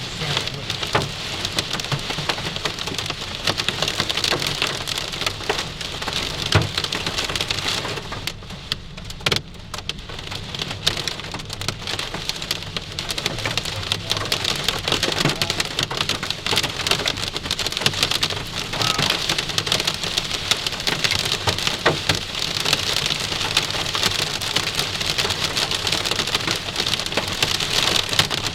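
Hail and heavy rain hitting a car's roof and windshield, heard from inside the vehicle: a dense patter with many sharp individual hailstone strikes. It lets up briefly about eight seconds in, then picks up again.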